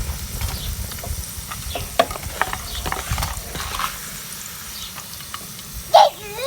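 Minced-meat cutlets frying in oil, with a steady sizzle and light clicks of a utensil in the pan. A short gliding call sounds about six seconds in.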